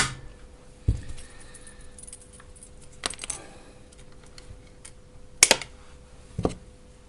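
Scattered clicks, taps and knocks of small tools and parts being handled on a workbench during battery-pack soldering work: a sharp click at the start, a duller thump about a second in, and a few more clicks later, over a faint steady hum.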